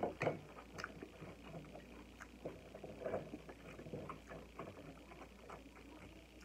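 Close-up mouth sounds of a person chewing and eating nachos: irregular wet smacks and small crunchy clicks, several a second, the sharpest near the start.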